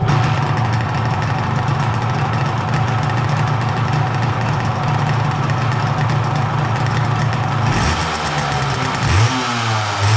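Honda MVX250F two-stroke V-three engine warming up, loud and busy. It comes in abruptly, then runs steadily at a fast idle. About eight seconds in, the throttle is blipped and the pitch rises and falls.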